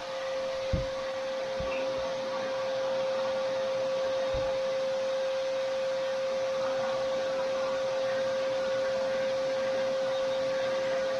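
Vacuum cleaner running steadily, a constant high hum. A couple of soft low thumps come in the first few seconds.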